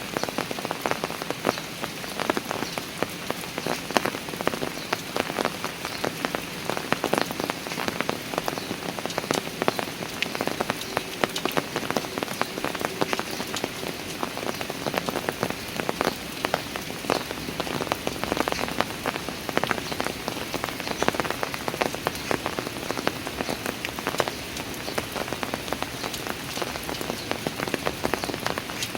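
Steady rain falling, with many close drops pattering and ticking on hard surfaces among the even hiss of the downpour.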